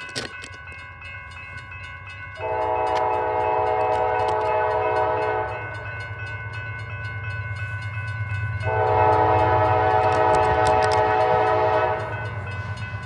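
Norfolk Southern locomotive sounding its horn in two long blasts as it approaches the grade crossing, over the rumble of its diesel engine that grows louder as it nears. The activated crossing's warning bell rings steadily underneath.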